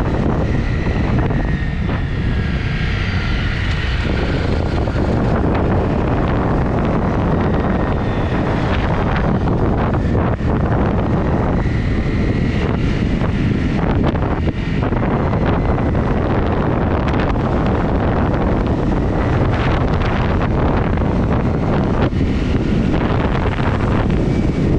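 Wind buffeting the microphone while riding a Honda CRF250 motorcycle, its single-cylinder four-stroke engine running steadily under the wind noise.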